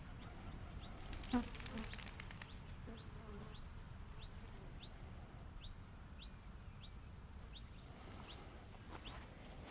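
A bird repeating short, high, rising chirps every half second to a second, over a low outdoor hum. A single sharp click sounds about a second in.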